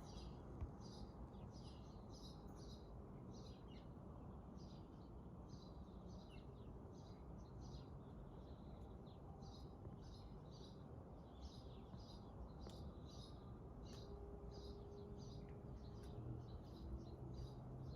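Small birds chirping in quick, short high calls, one after another, over a faint steady low background hum.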